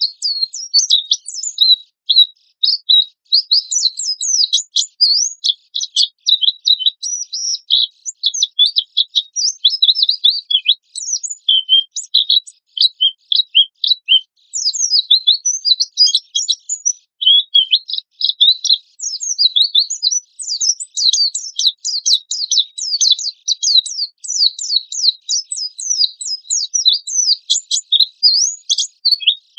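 White-eye (pleci) singing non-stop in harsh, rapid high-pitched chirping runs, broken by a few brief pauses, the energetic 'gacor' song used as a lure recording to get other white-eyes singing.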